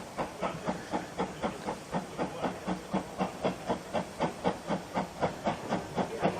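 Steam locomotive working under steam, its exhaust chuffing in an even rhythm of about four beats a second.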